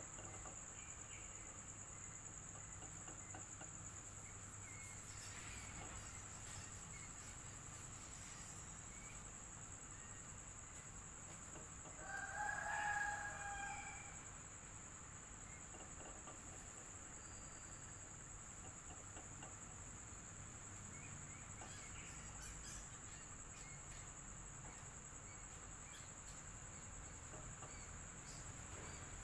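Crickets trilling steadily at a high pitch over a fan's low steady hum, with a rooster crowing once about twelve seconds in, the loudest sound, lasting about two seconds.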